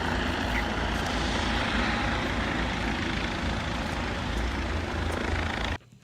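Helicopter running close by: a heavy, loud rumble with dense noise across the range, cutting off abruptly near the end.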